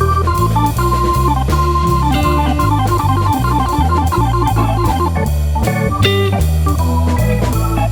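Background music: a blues-style instrumental with organ and guitar over a walking bass line, with a steady beat.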